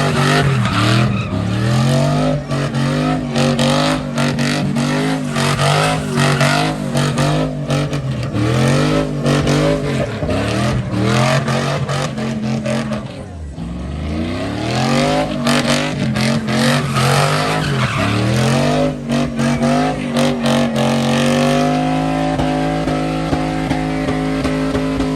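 Truck engine held at high revs during a burnout, the revs bouncing up and down as the tyres spin. About halfway through the revs drop sharply and climb back, and near the end they hold steady.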